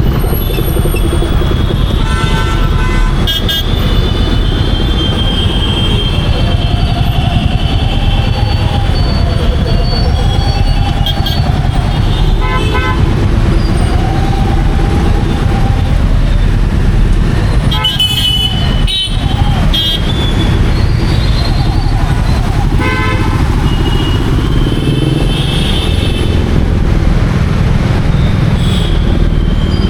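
Royal Enfield Meteor 350's single-cylinder engine running steadily on the move through city traffic, with vehicle horns honking several times.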